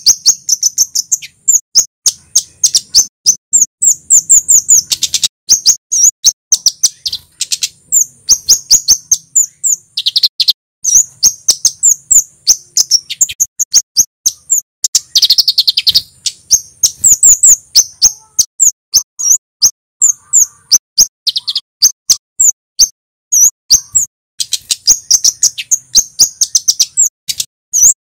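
Male kemade (Javan flowerpecker) singing a loud, fast series of sharp, high chips and ticks, in rapid runs broken by short pauses.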